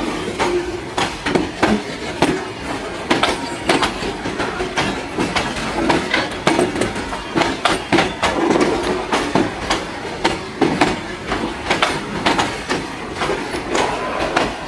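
A long rake of freight wagons rolling past, their wheels clacking over rail joints and points in a dense, irregular run of sharp clicks over a steady rumble.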